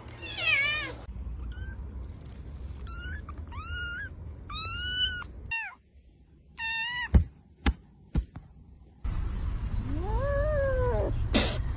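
Kitten meowing: a run of about eight short, high meows, then three sharp clicks, then one longer, lower meow near the end.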